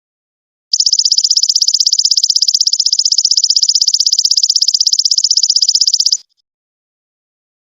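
Song of the belalang emas (golden locust) insect: a single rapid, evenly pulsed, high buzzing trill that starts under a second in and cuts off about a second and a half before the end.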